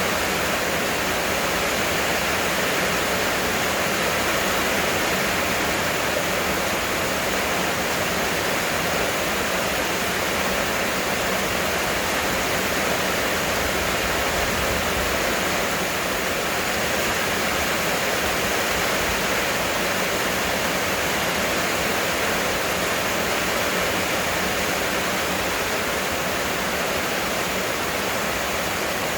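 Heavy rain falling, a steady dense hiss with no breaks.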